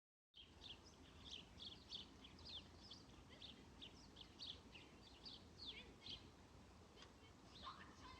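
Small birds chirping at a bird feeder: a quick, continuous run of short, high, downward-sliding chirps, two or three a second, over a faint background hiss.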